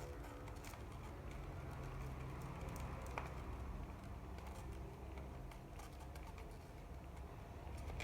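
Scattered light clicks and taps of small objects being handled and packed away, with one sharper click about three seconds in, over a low steady hum.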